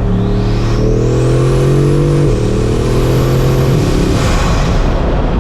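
Bugatti Mistral's quad-turbocharged 8.0-litre W16 engine pulling under acceleration, with a high whistle climbing in pitch over it. The engine note drops in pitch once about two seconds in, and near four seconds in it fades, leaving wind and road noise.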